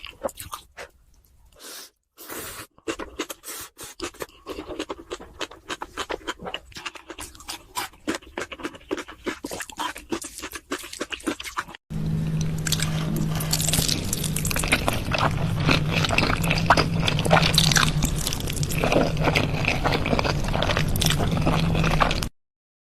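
Close-miked eating sounds: wet clicks of chewing, then about twelve seconds in a louder, dense crunching and crackling over a steady low hum, which cuts off abruptly near the end.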